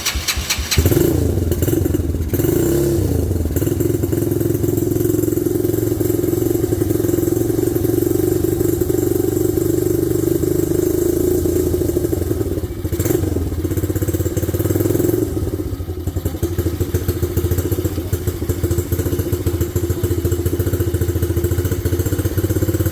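Single-cylinder engine of an RPS 125cc kids' ATV cranking with rapid even clicks and catching about a second in, then running steadily. Its pitch rises and falls briefly a couple of seconds in, with a short dip about halfway.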